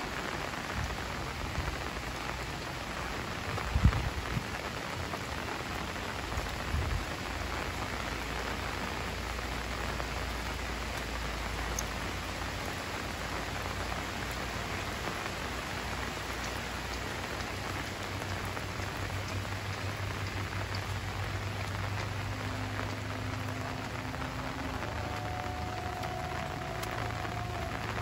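Heavy rain falling steadily on foliage and ground, an even hiss throughout, with a brief low thump about four seconds in.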